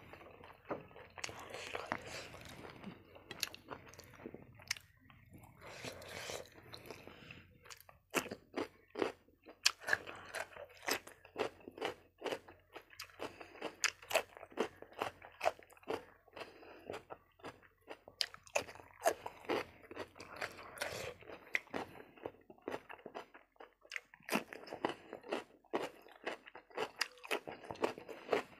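Close-miked chewing and crunching of food: bites of raw cucumber and tough fried pork ear. Softer chewing at first, then a long run of sharp, rapid crunches from about a third of the way in.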